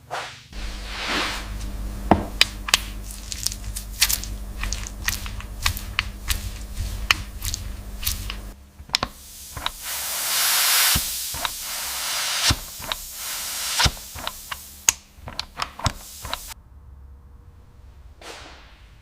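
Workshop tool noise in several sections. First a low running rumble with many sharp taps and knocks. Then a steady hiss from about halfway, with more knocks. It goes much quieter near the end.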